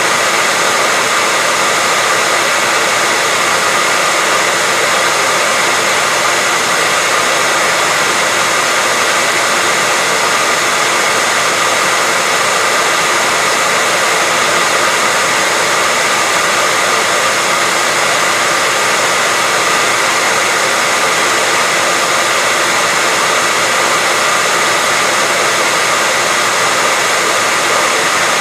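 Hairdryer running steadily, an even rushing blow of air with a faint steady whine from its motor and fan.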